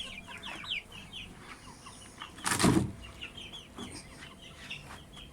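Ducklings peeping: many short, high, falling cheeps in quick succession, with a brief loud rustle about two and a half seconds in.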